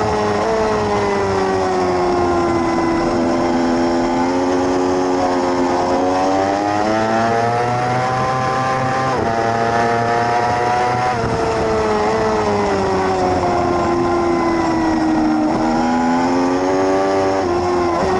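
600cc race motorcycle engine at racing speed, its revs falling and rising repeatedly through corners, with quick jumps in pitch at gear changes about halfway through and near the end.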